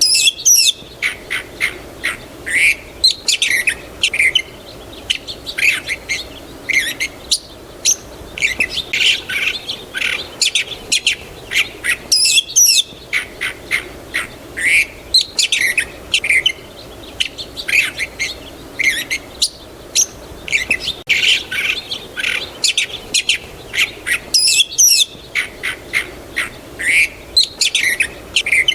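Small birds chirping and calling steadily, many short high calls following one another closely. The same stretch of calls repeats about every twelve seconds.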